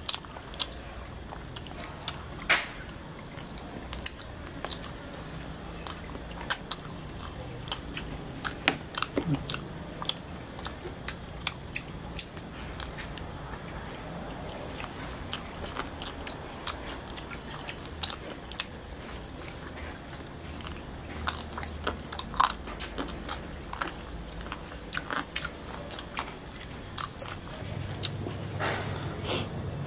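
Close-up chewing and biting of sauce-glazed barbecue chicken wings, with irregular short clicks and wet mouth sounds.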